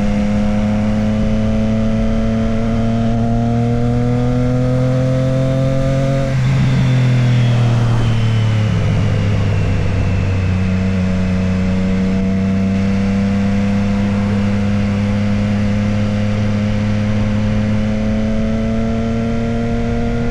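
Motorcycle engine under way. Its pitch climbs slowly for about six seconds, then drops at a gear change; it climbs again from about ten seconds in and drops once more near the end. A steady rush of wind noise runs underneath.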